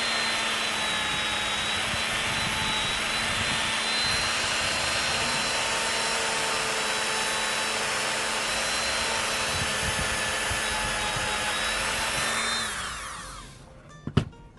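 Small high-speed rotary grinding tool running steadily at a constant pitch. Near the end it is switched off and its pitch falls as it spins down, followed by a sharp click.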